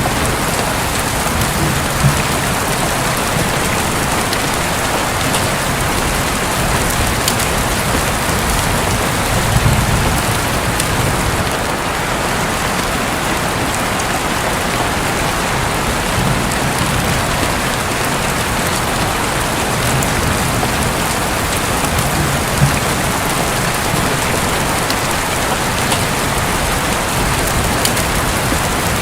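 Heavy rain falling steadily on a roof, with single drops ticking now and then and low, soft rumbles of distant thunder coming and going.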